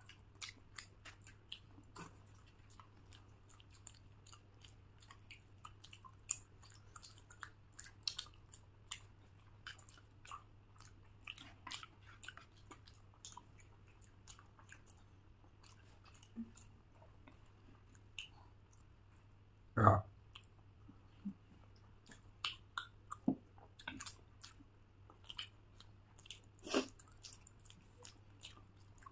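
Close-miked chewing and biting of food, many small wet clicks and crunches at an uneven pace over a faint steady hum. A single louder thump about two-thirds of the way through.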